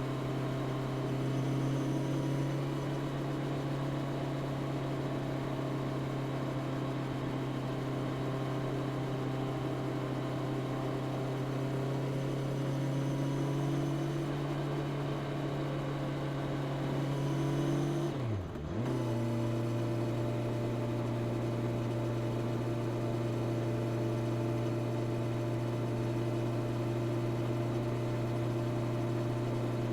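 Honda CB650R's inline-four engine with the stock exhaust, running steadily at cruising revs. About eighteen seconds in, the revs drop sharply for a moment and pick up again, as at a quick gear change.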